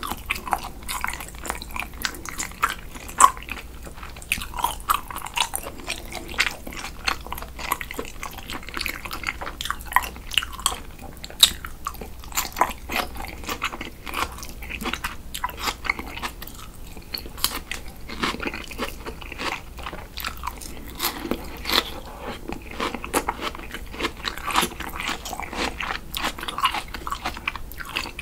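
Close-miked chewing and biting of chunks of raw chilled salmon: a steady run of irregular mouth clicks and smacks.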